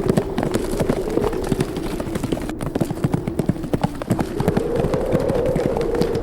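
Horses galloping, their hooves making a quick, irregular run of many hoofbeats, over a steady howl of wind that rises a little about four seconds in.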